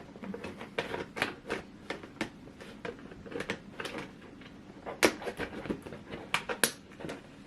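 Clear plastic shoe box panel being pressed and snapped into place: a run of sharp plastic clicks and crackles from the thin folded plastic, the loudest snaps near the end.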